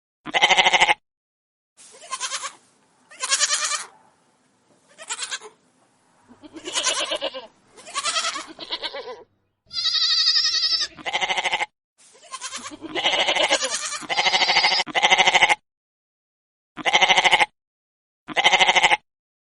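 Goats bleating: about fifteen separate calls, each half a second to a second long, cut together with dead silence between most of them. One call about ten seconds in is much higher-pitched than the rest.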